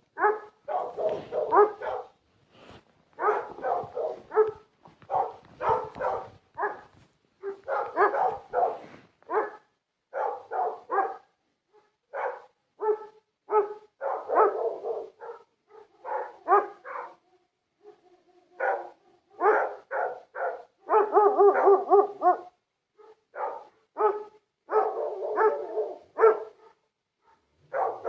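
Big guard dogs barking over and over in quick runs of barks separated by short pauses.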